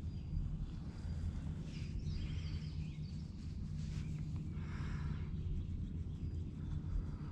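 Outdoor ambience: a steady low hum with a few short bird calls now and then.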